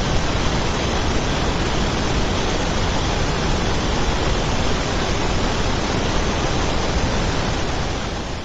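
A loud, steady rushing noise like hiss or static, without any tone or rhythm, dying away near the end.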